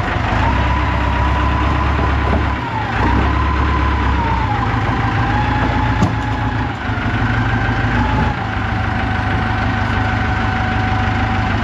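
Engine of the machine lifting a cabin, running steadily, with a whining tone that steps up and down in pitch several times as it works.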